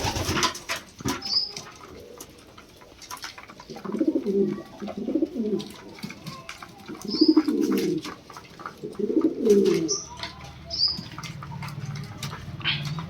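Lahore pigeons cooing in several low, rolling phrases a few seconds apart, with a few short high chirps and scattered clicks between them. A low steady hum comes in near the end.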